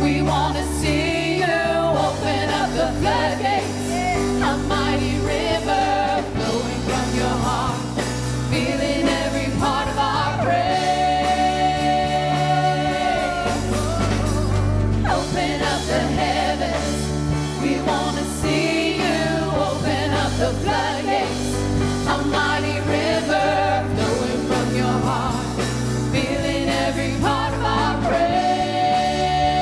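Gospel worship song: voices singing over a backing band with steady bass notes, with a long held sung note about a third of the way in and again near the end.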